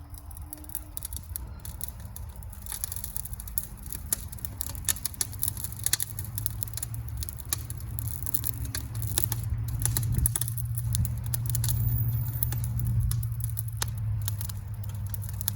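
Wood fire crackling and popping inside a steel drum, many irregular sharp snaps over a steady low rumble, as the drum is burned out to strip its paint.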